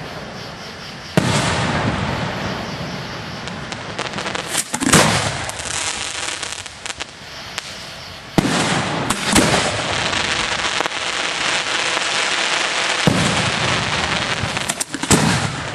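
Aerial fireworks at close range: sharp reports of shells, each followed by a long trail of crackling and hissing. There are three big reports several seconds apart, and quick clusters of cracks in between.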